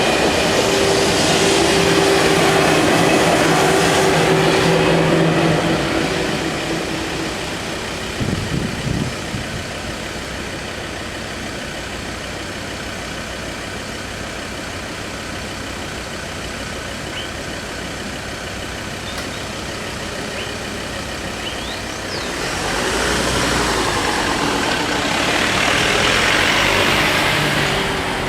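The noise of a TGV high-speed train passing fades away over the first six seconds, with a steady hum that dies out. After a quieter stretch of steady background noise, a road vehicle passes close by from about 22 seconds in.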